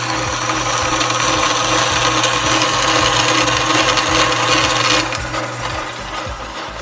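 Vintage Craftsman bandsaw, converted to vertical use, running with its blade cutting through a workpiece: a loud, steady rasping hiss over the motor hum that eases off about five seconds in as the cut ends. A regular low knock repeats about three times a second throughout.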